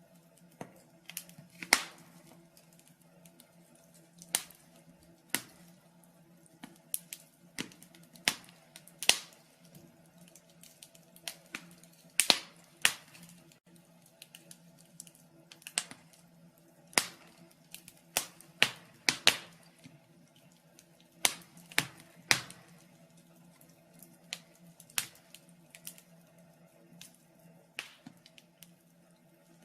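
Wood fire in a fireplace crackling, with irregular sharp pops, several of the loudest bunched around the middle, over a faint steady hum.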